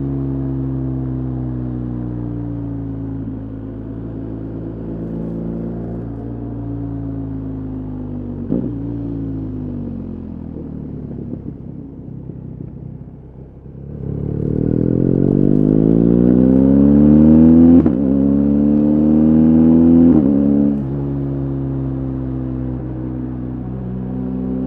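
BMW R 1250 GS Adventure's boxer-twin engine on the road: revs falling off under a closed throttle, with a downshift, then opening up hard from about halfway with the pitch climbing through two upshifts before settling to a steady cruise.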